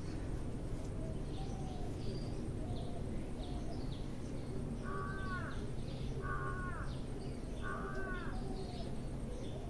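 A bird calls three times, about a second and a half apart, each call a short harsh note that falls in pitch. Fainter high chirps and a steady low background hum run underneath.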